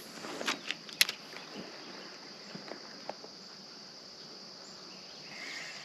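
Steady high-pitched insect trill, typical of crickets, over quiet outdoor background, with a few light clicks in the first second.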